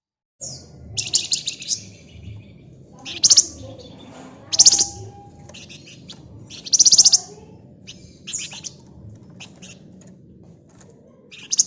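Flamboyan (wergan Jawa) songbird singing in short, fast, buzzy trilled bursts, about six of them with softer chips in between; the loudest come at around three, four and a half and seven seconds.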